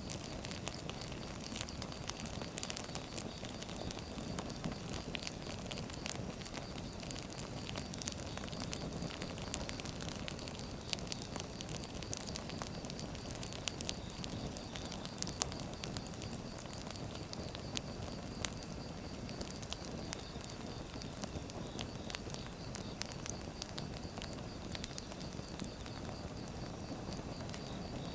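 Firewood burning: a steady low rush of flames with frequent sharp crackles and pops scattered throughout.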